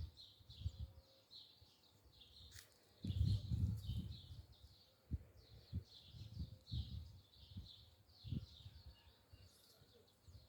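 Small birds chirping over and over, with intermittent low thumps and rumbles, the loudest about three seconds in.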